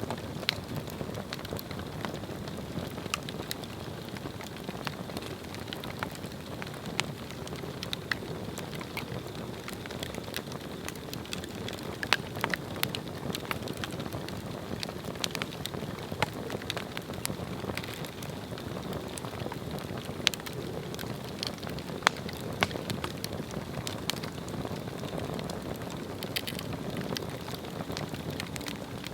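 Swedish torch log fire burning: a steady low roar of flame with irregular sharp crackles and pops of burning wood.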